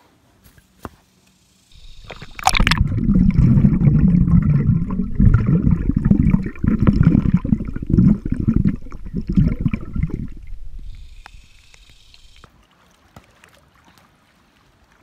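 Water sloshing and splashing, starting with a sharp splash about two and a half seconds in, loud for several seconds and then dying away.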